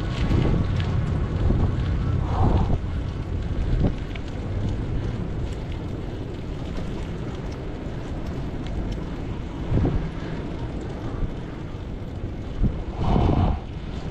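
Wind buffeting an action camera's microphone on a moving bicycle, a steady low rumble with a few short knocks from the ride.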